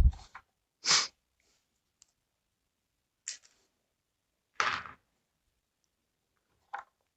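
Hand-handling noises from the chain oil bottle and the saw's oil tank: four short, separate clicks and scrapes spaced a second or two apart, the one about two-thirds of the way through the longest.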